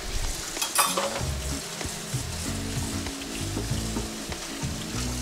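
Chicken pieces searing in hot grapeseed oil in a wok, a steady sizzle and frying hiss, with one brief louder burst just under a second in. The pieces lie in a single layer, left undisturbed to brown.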